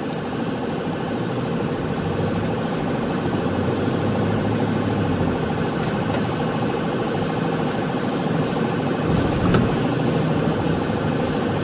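Patrol car running at low speed, heard from inside the cabin: steady engine and road noise, with a few faint clicks.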